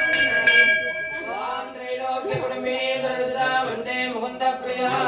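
A bell struck rapidly, about three strokes a second, stopping within the first second. Then a voice sings or chants a devotional melody in long, bending notes.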